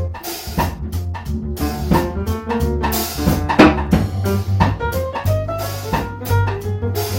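Instrumental jazz from a piano, drum kit and bass trio: piano notes in quick runs over a walking bass line, with drum and cymbal strokes and a sharp drum hit about three and a half seconds in.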